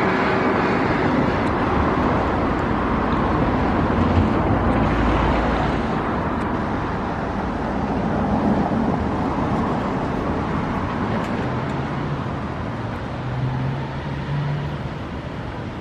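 Motor traffic noise, with an engine running close by and slowly fading away.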